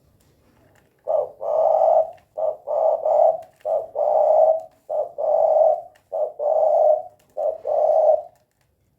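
Spotted dove (tekukur) cooing: a series of low coos that come in pairs, a short note followed by a longer drawn-out one, repeated about six times and stopping a little before the end.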